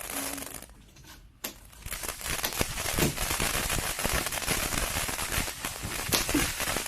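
Packaging being opened and handled: crinkling, rustling and crackling, with a brief lull about a second in, then a sharp click and steady crackling.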